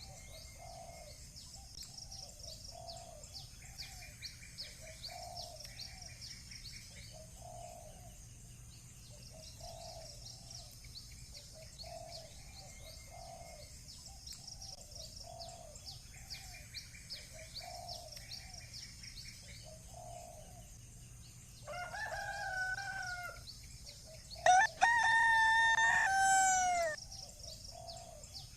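A rooster crows twice near the end, a shorter crow followed by a louder, longer one that falls at its close. Underneath runs a steady chorus of small birds chirping and a low call repeating about once a second.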